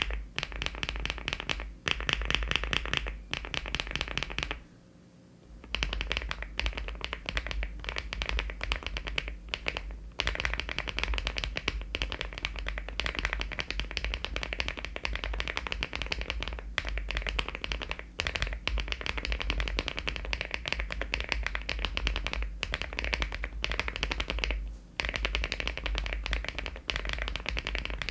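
Fast typing on a LEOBOG Hi75 aluminium mechanical keyboard with HMX switches and Cherry-profile keycaps: a dense run of key clacks, with a pause of about a second near five seconds in.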